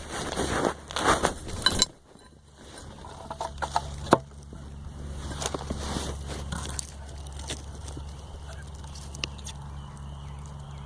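Phone microphone rubbing and rustling as the phone is slipped into a pocket. The sound then goes muffled, leaving a steady low hum with a few faint knocks.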